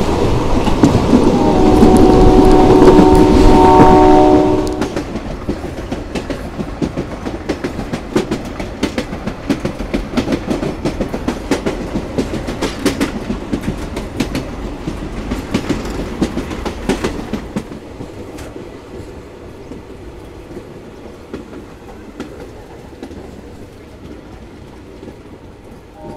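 A diesel locomotive's multi-tone horn sounds for about three seconds over the rumble of the moving train. The horn is followed by steady wheel clatter over the rail joints as the train crosses a bridge. The clatter drops quieter for the last several seconds.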